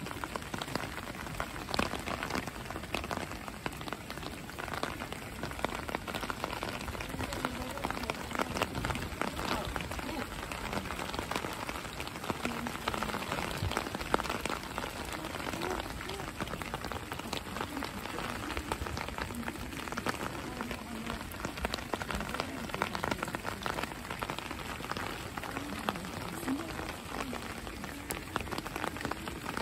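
Steady rain falling: a dense, even crackle of many small drops.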